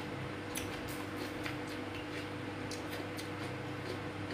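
Faint wet clicks and smacks of a man chewing food with his mouth closed, scattered irregularly, over a steady low hum.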